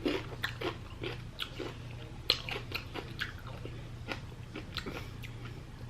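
A person chewing food close to the microphone, with irregular wet mouth clicks and smacks. A steady low hum runs underneath.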